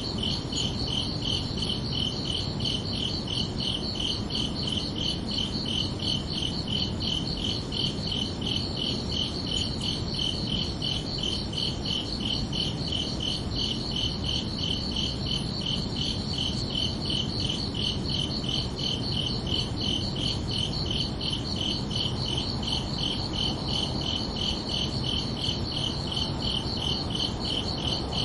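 Crickets chirping in a steady, even pulse, high-pitched, over a low background hiss.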